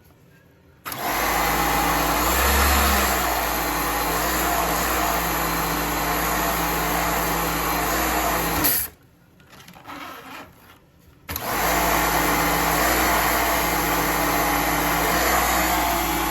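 Motor-driven cleaning machine running with a steady rushing noise and a low hum, in two long runs with a pause of about two seconds between them.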